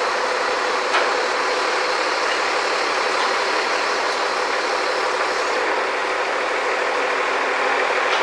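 Heavy construction machinery engine running steadily, with a single sharp click about a second in.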